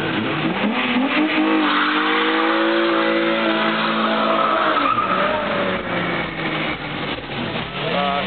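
Car engine revving hard: the pitch climbs for about a second and a half, is held high, falls away about five seconds in, then climbs again near the end.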